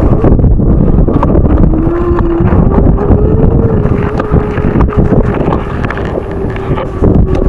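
Strong wind buffeting the microphone in loud, rumbling gusts. A faint steady hum comes in about a second and a half in and fades near the end.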